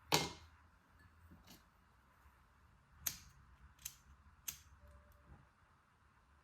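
A loud sharp click just after the start, then three smaller sharp clicks about three, almost four and four and a half seconds in.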